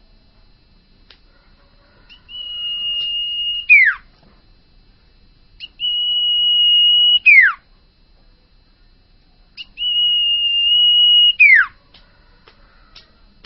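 Common iora (sirtu) whistling three times: each call a long steady whistle of about a second and a half that ends in a quick downward slide.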